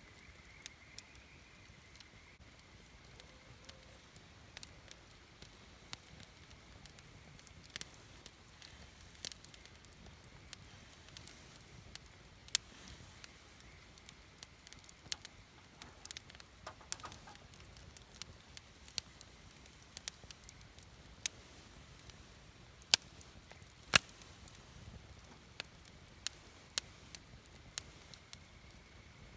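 Wood campfire burning, crackling with irregular sharp pops and snaps over a soft low hiss; a few pops stand out much louder than the rest.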